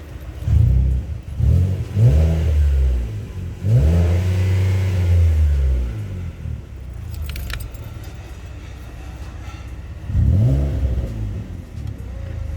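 Ford Explorer engine revved through a MagnaFlow muffler exhaust with the resonator removed: a few quick blips, one rev held for about two seconds, then another blip near the end, dropping back to a steady idle in between.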